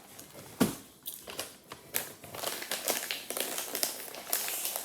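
Dry cereal being poured into a bowl of leftover milk: a run of irregular crinkling, rattling clicks, with one sharper knock about half a second in.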